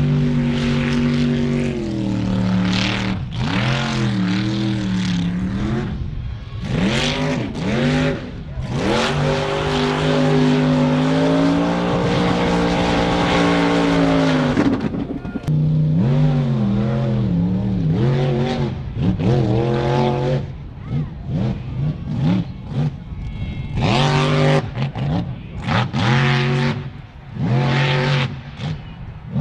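A vehicle engine revving hard, again and again, its pitch climbing and falling with a long held rev in the middle.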